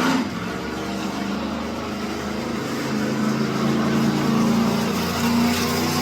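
Monster truck engine running and revving, its pitch holding fairly steady and growing louder about halfway through.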